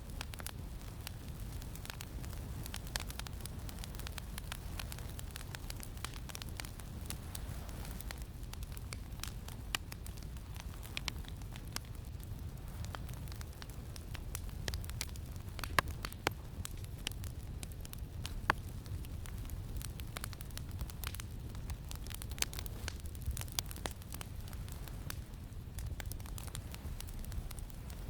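Campfire crackling, with irregular sharp pops and snaps over a steady low rumble that may be wind, two pops around the middle louder than the rest.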